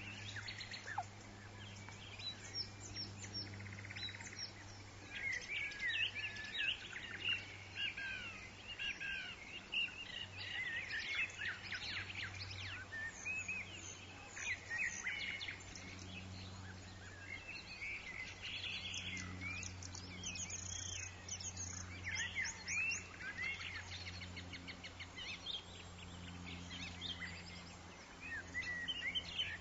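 Tropical forest ambience: many birds chirping and warbling over one another, with a steady low hum underneath.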